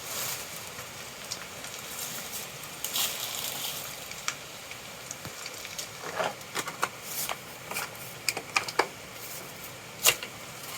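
Scattered small clicks and light knocks of a trap being handled and set, sparse at first and coming thicker in the second half, with one sharp, loud click near the end.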